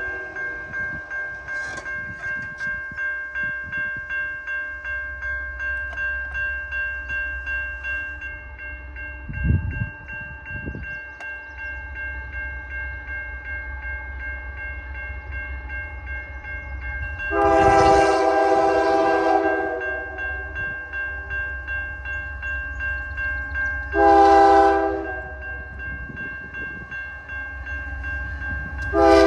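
Diesel freight locomotive's K3L air horn sounding the grade-crossing signal, a long blast then a short one, with the next long blast starting near the end, over a crossing bell ringing about twice a second and the low rumble of the train.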